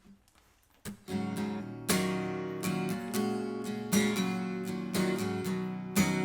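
Acoustic guitar strummed, beginning about a second in after a near-quiet moment, with ringing chords and heavier strums every two seconds or so.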